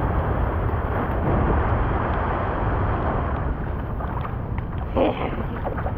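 Wind buffeting the camera microphone, a steady rumbling rush over beach surf, with one short louder blip about five seconds in.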